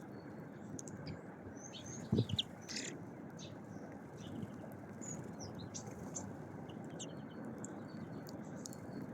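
Small songbirds chirping: many short, high calls scattered over a steady background hiss. A single brief knock about two seconds in.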